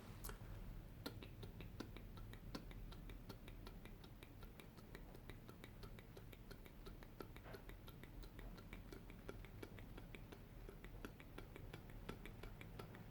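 Faint, close-miked ASMR clicks and taps, several a second in an irregular patter, over a low steady hum.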